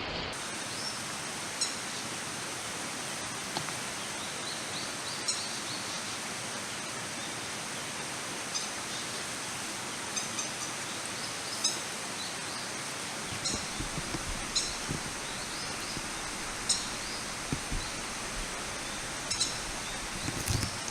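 Steady rush of flowing stream water, with short high bird chirps now and then, some in quick clusters. A few low knocks near the end.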